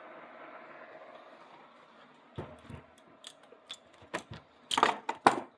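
A run of sharp mechanical clicks and knocks, like small metal parts or tools being handled, starting about halfway through and loudest in two knocks near the end, over a faint steady hum at first.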